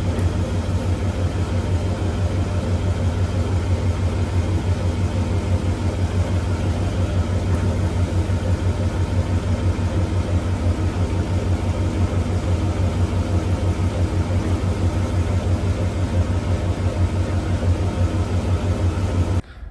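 Pickup truck engine idling steadily with an even, rapid low pulse.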